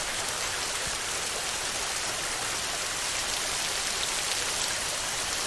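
Heavy rain falling steadily on a metal roof, an even hiss with no let-up.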